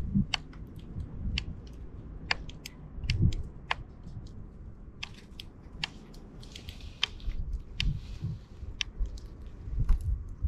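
Sparrows feeding: many short, sharp, irregular ticks and pecks, over a low rumble.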